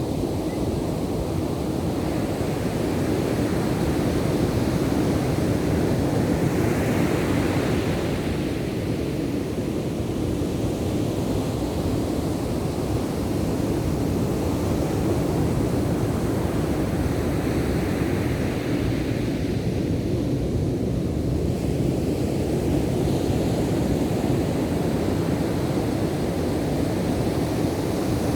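Ocean surf: a continuous wash of waves with slow swells of breaking water every several seconds.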